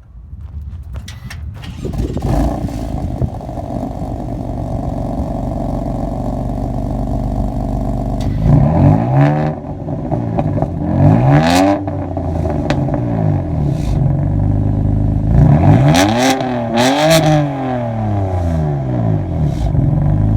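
BMW M3's twin-turbo inline-six fires up about two seconds in and settles into a steady idle. It is then revved several times through the exhaust: once, a second time a few seconds later, and two quick blips near the end, each sweeping up in pitch and falling back to idle.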